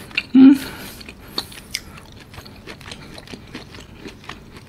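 Close-miked eating sounds of a person chewing soft cubes of cooked wagyu beef: faint wet mouth clicks and smacks scattered through, after one short loud sound about half a second in.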